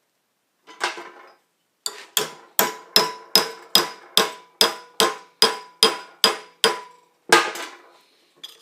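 Hammer blows on a silver-brazed copper tube clamped in a vise, bending the joint to test how far the brazing material penetrated. One blow, then a steady run of about a dozen blows at two to three a second, each leaving a metallic ring, and a last heavier blow near the end.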